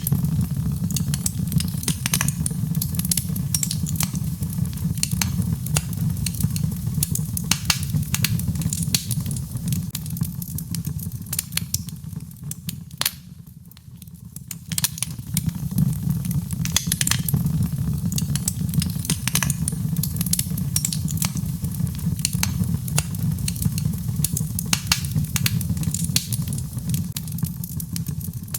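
Birch logs burning in a fireplace: a steady low rumble of the flames with frequent sharp, irregular crackles and pops. Everything drops briefly quieter about halfway through.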